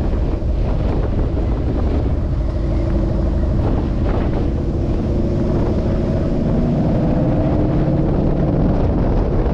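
2016 Ford Mustang GT's 5.0 V8 with Roush cat-back exhaust running on the move, a deep rumble whose pitch climbs gradually from about three seconds in as the car gathers speed. Wind buffets the microphone throughout.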